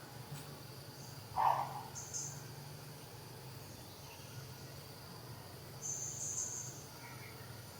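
Outdoor ambience of insects with a steady high buzz, and a couple of short, higher chirps, one about two seconds in and a longer one about six seconds in. A brief, louder, lower sound comes about one and a half seconds in.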